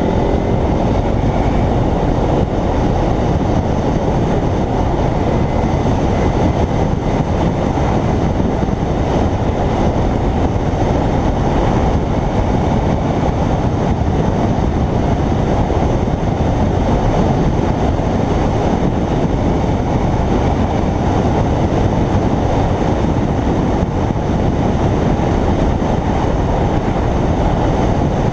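Steady wind roar on a riding motorcycle's microphone, with a Kawasaki Ninja 300's parallel-twin engine running evenly beneath it.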